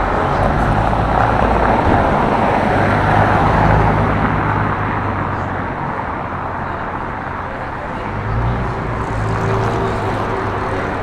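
Street traffic: car engines running past with steady road noise, fading midway and picking up again about eight seconds in as another vehicle comes by.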